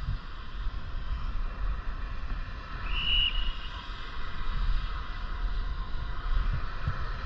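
Wind buffeting the microphone over steady riding noise on a moving bicycle, with a brief high tone about three seconds in.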